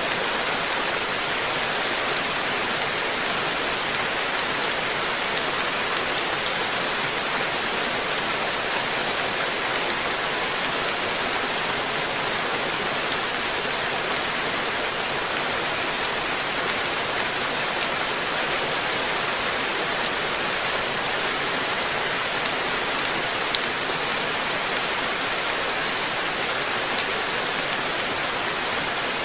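Steady rain falling on a koi pond's water surface and the garden around it, an even hiss with a few sharper drop ticks now and then.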